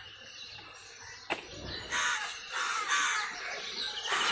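Crows cawing: three or four harsh calls about a second apart, starting about two seconds in. A single sharp tap comes about a second in.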